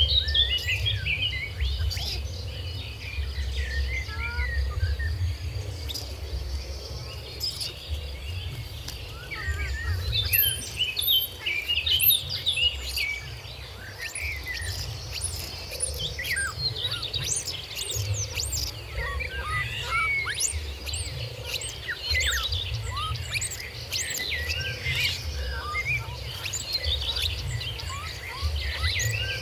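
Birds chirping over and over in many short, high, quick calls, with a steady high insect drone and a low rumble beneath.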